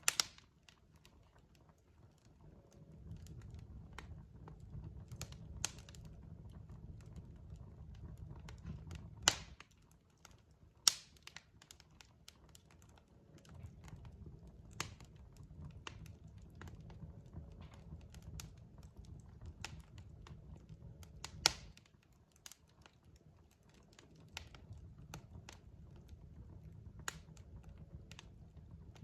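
Wood fire crackling: scattered sharp pops and snaps, three of them much louder, over a low rumble from the burning logs that fades out and returns a few times.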